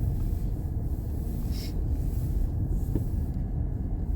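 Steady road noise inside a moving car's cabin: a low rumble of tyres and engine, with a brief faint high squeak about one and a half seconds in and a small click near three seconds in.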